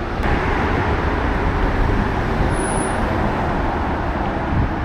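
Steady road traffic noise, a continuous rumble of passing vehicles that swells slightly just after the start and holds.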